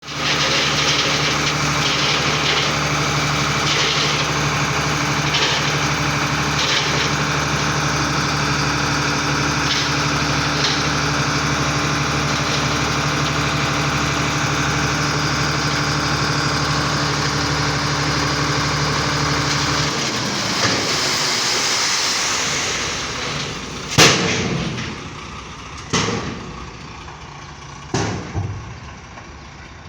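Foton dump truck's diesel engine running steadily, its low running note stopping about two-thirds of the way through. A hiss follows, then three sharp bangs about two seconds apart.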